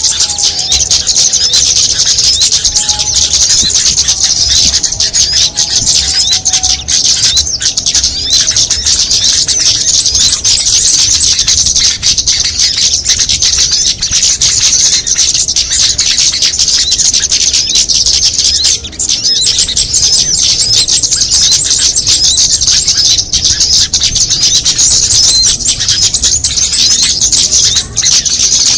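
Dense, unbroken high-pitched chattering and twittering of small songbirds: a bird-lure (pikat) recording mixing the calls of several small species.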